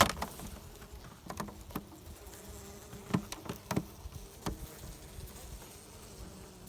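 Honey bees buzzing in and around an opened hive, a steady low hum, with a few scattered sharp ticks over it.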